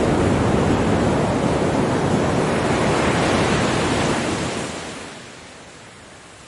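Ocean waves washing up on a beach; the loud rush of surf dies away about four and a half seconds in, leaving a soft, steady hiss.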